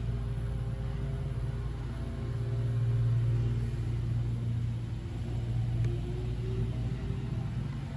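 Steady low rumble of air from an electric fan blowing across the microphone, swelling for a moment a couple of seconds in.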